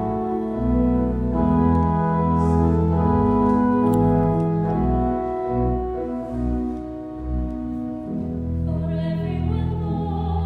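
Organ playing a hymn introduction: sustained chords over a bass line, changing about once a second.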